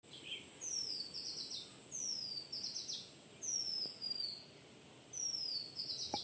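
A songbird singing the same short phrase over and over, about every one and a half seconds: a high whistle sliding downward, then a quick run of notes.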